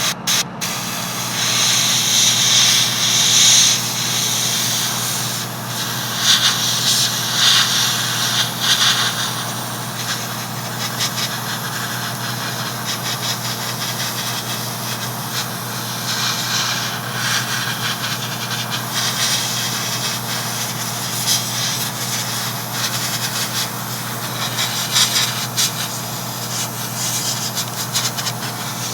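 Airbrush spraying hull paint in repeated bursts of hiss, strongest in the first ten seconds and again near the end, over a steady low hum.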